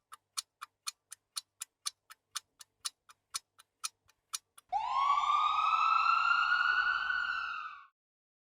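Clock-like ticking, about four ticks a second, typical of a quiz countdown timer. Then, about four and a half seconds in, the ticking stops and a single loud, steady tone starts and slowly rises in pitch for about three seconds before cutting off.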